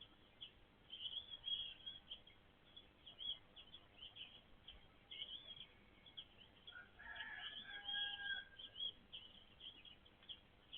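Backyard birds calling: a busy run of short, high chirps goes on throughout, joined about seven seconds in by a lower, longer whistled call from another bird.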